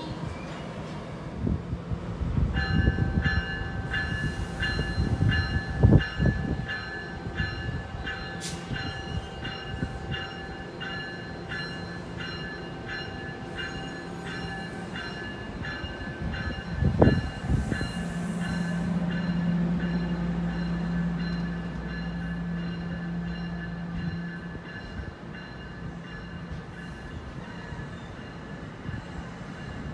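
NJ Transit double-deck commuter train moving along the station platform, its cars and wheels rumbling steadily. A high, bell-like ringing repeats at about two strikes a second through most of it, with two loud knocks, one about six seconds in and one about seventeen seconds in.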